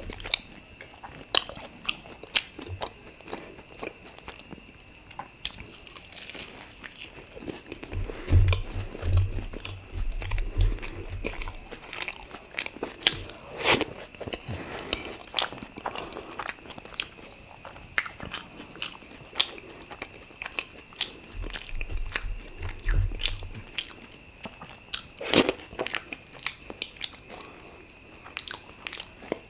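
Close-miked eating sounds of luchi (fried puffed bread) with curry: irregular wet mouth clicks, bites and chewing. Two stretches of low rumble come in, about 8 seconds in and again about 21 seconds in.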